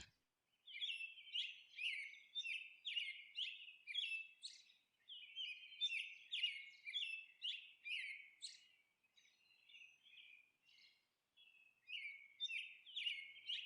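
Faint small-bird chirping: quick, high chirps about two a second. They stop for about three seconds past the middle and start again near the end.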